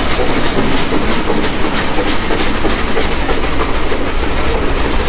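Nilgiri Mountain Railway metre-gauge train running, heard from an open coach window. A steady rushing noise, with a quick, regular clatter of the wheels on the rail joints, about three to four ticks a second.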